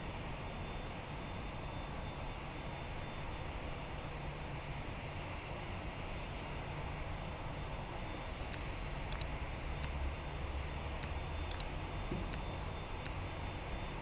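Airliner engines running at an airport, a steady low rumble with a hiss above it.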